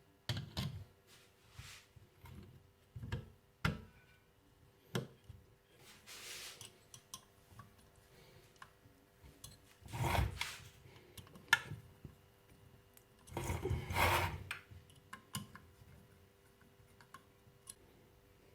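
Hand assembly of a model turbojet: scattered clicks and light knocks of small metal parts and tools, with two longer rubbing scrapes about ten and fourteen seconds in, as the exhaust nozzle is fitted.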